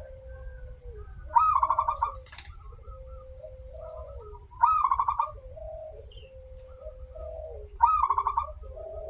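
Zebra dove (perkutut) singing: three loud, rolling, rapidly pulsed coos about three seconds apart. Softer, lower held notes carry on between them.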